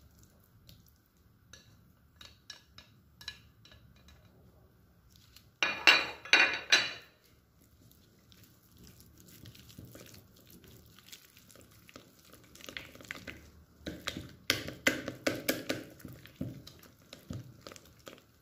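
Cutlery and dishes clinking and knocking during kitchen prep: light scattered clicks, a loud cluster of about four sharp knocks about six seconds in, and another run of clatter around fourteen seconds in.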